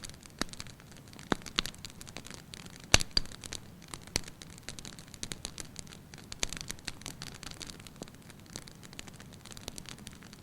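Wood fire crackling in an open hearth, with irregular sharp pops and snaps over a soft hiss; the loudest pop comes about three seconds in.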